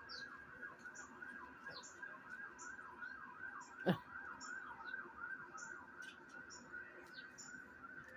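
A bird singing from a TV's speakers: a long, faint run of repeated down-slurred whistled notes, about two or three a second, with short high chips above them. A single knock about four seconds in.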